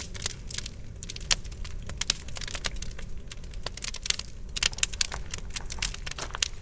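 Wood campfire crackling, with many irregular sharp snaps and pops over a low steady rumble.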